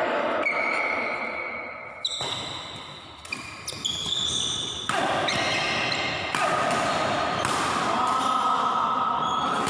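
Badminton doubles rally on an indoor court: several sharp racket hits on the shuttlecock, a second or so apart, with short squeaks and a steady echoing hall din, and some voices.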